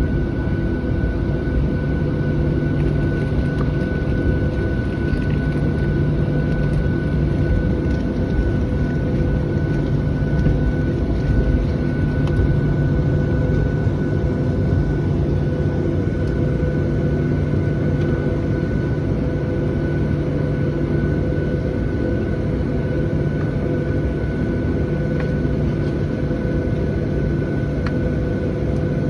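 Boeing 737-700 cabin noise from its CFM56 jet engines running at a steady setting. It is a constant low rumble with a steady hum and a thin whine held at one pitch.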